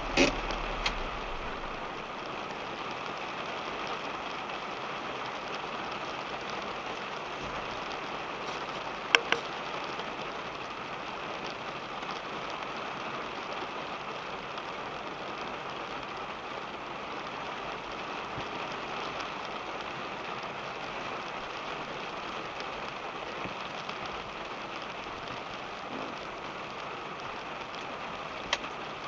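Steady rain falling on a car, heard from inside the cabin, with a few sharp ticks: one at the start, one about nine seconds in and one near the end.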